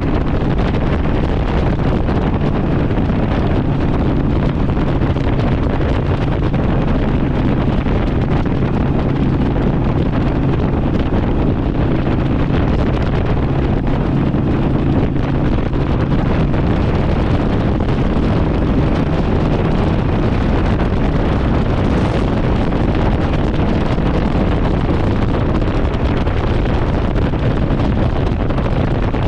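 Harley-Davidson Sportster's V-twin engine running through an aftermarket exhaust at a steady pace on the move, with heavy wind noise on the microphone.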